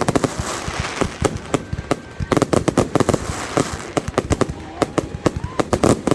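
Fireworks going off: a rapid, irregular crackle of sharp bangs, several a second, over crowd noise.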